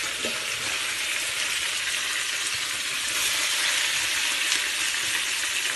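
Walleye fillets frying in oil in a pan: a steady sizzling hiss, a little louder from about three seconds in.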